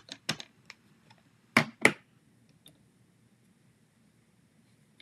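A few light clicks, then two sharp knocks about a second and a half in, from a hinged stamp-positioning tool being closed and pressed down onto a card.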